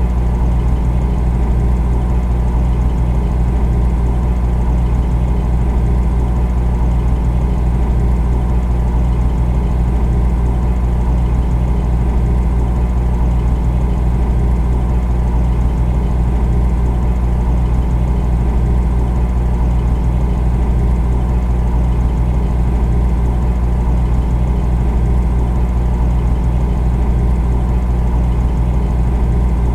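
Refrigerator compressor running with a steady low hum and an even whirr above it, unchanging throughout.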